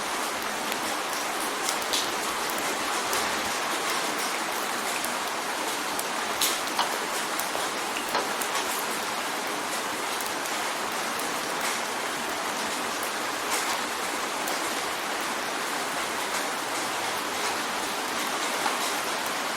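Steady rain on a window: a dense hiss with scattered sharp drop ticks, a few louder ones about 6 to 9 seconds in.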